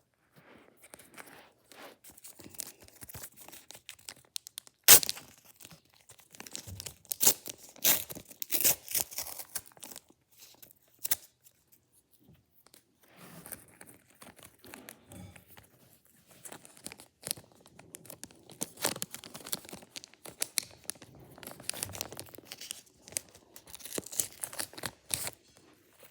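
Panini Adrenalyn trading-card foil packs being torn open and the wrappers crinkled, in clusters of sharp crackles with a brief lull partway through. A single sharp snap about five seconds in is the loudest sound.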